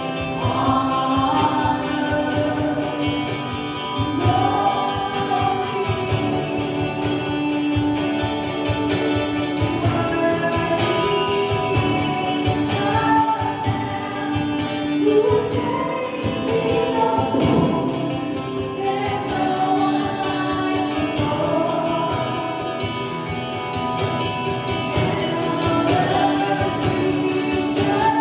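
Gospel worship music: several voices singing together over band accompaniment with a steady beat.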